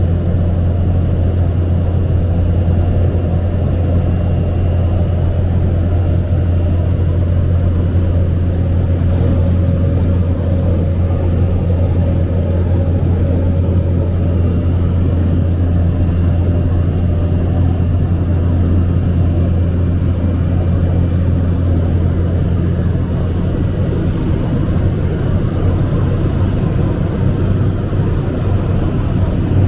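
Steady drone of a Cessna 208B Caravan's single turboprop engine and propeller, heard from inside the aircraft on approach. It is a strong low hum with a faint high whine above it.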